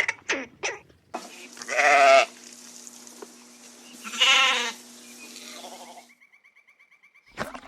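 A bleating farm animal: two long, wavering bleats about two and a half seconds apart, after a few short calls at the very start.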